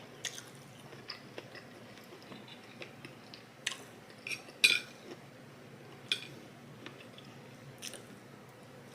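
Cutlery clinking and scraping against a plate a handful of times during eating, short sharp clicks spaced a second or more apart, the loudest about halfway through.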